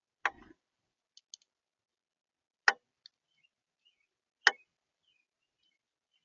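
Birds pecking and tapping on a bird feeder: three sharp, loud knocks, one right at the start, one near the middle and one about three-quarters through, with a few fainter clicks between them.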